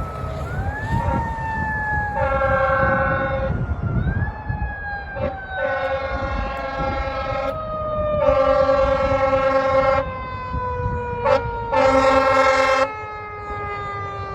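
Fire engine's mechanical Q siren winding up twice and coasting slowly down in pitch, while the air horn gives four long blasts and a couple of short blips over the truck's engine rumble.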